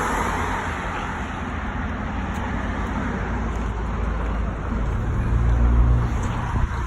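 Road traffic noise, with a low rumble that swells about five seconds in as a vehicle passes.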